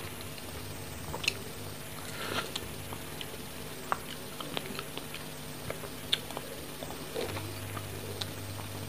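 Close-up wet chewing of fresh strawberries: scattered soft mouth clicks and smacks, with a bite into another strawberry near the end, over a steady low hum.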